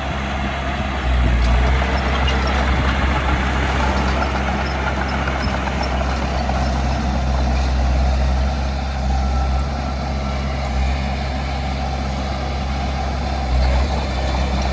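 Heavy diesel engine of earthmoving machinery running steadily under load, with a deep hum that gets louder about a second in.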